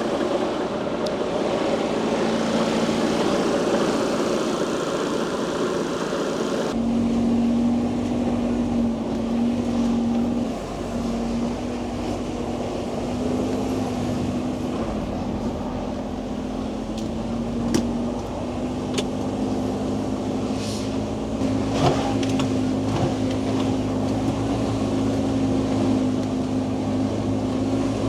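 Timber truck's diesel engine running steadily. The sound changes abruptly about seven seconds in, after which the engine note wavers and slowly rises, with a few sharp knocks.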